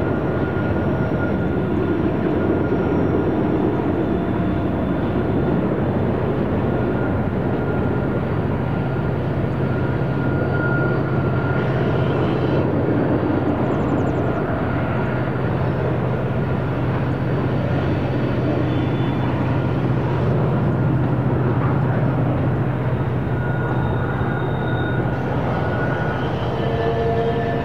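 Freight train on the Tehachapi grade: a steady rumble of diesel locomotives and rolling cars, with thin high squeals from wheel flanges on the curve coming and going.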